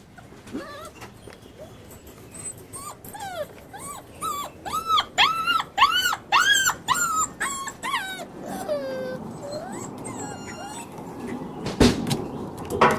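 Young Dalmatian puppies whimpering and yelping, a quick run of short rising-and-falling cries that is loudest in the middle, then thinner calls. A sharp knock about a second before the end.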